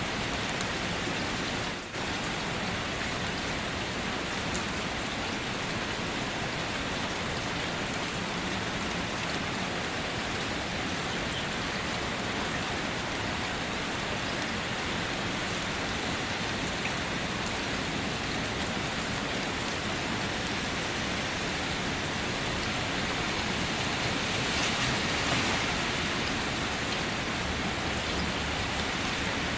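Steady rain falling, an even hiss of drops with a brief dip about two seconds in and a slight swell near the end.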